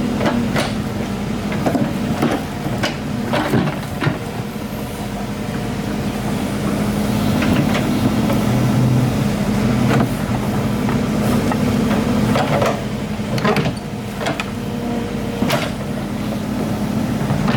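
Excavator's diesel engine running steadily, with sharp knocks and clanks scattered through, a dozen or so over the stretch.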